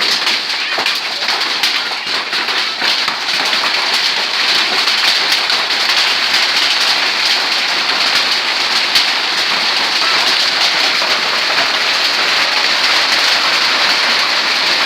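Hail and rain falling hard: a dense, steady downpour hiss peppered with many sharp ticks of hailstones striking.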